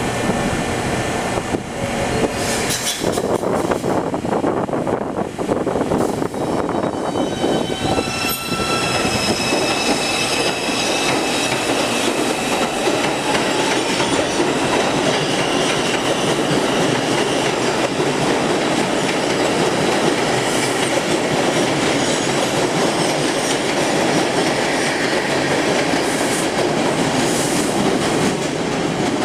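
R142 subway train running through the station, its steel wheels clattering and squealing on the rails under a steady heavy rumble. A few high whining tones rise out of it about eight seconds in.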